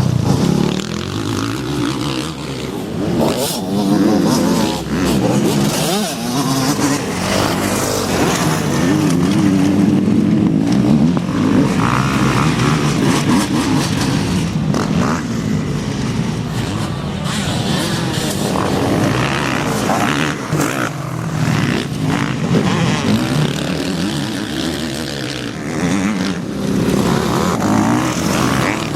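Motocross bikes racing, their engines revving up and down continuously as they ride the track.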